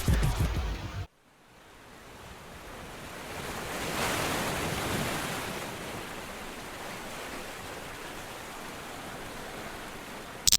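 Background music cuts off about a second in. A steady rushing noise then fades up and swells about four seconds in.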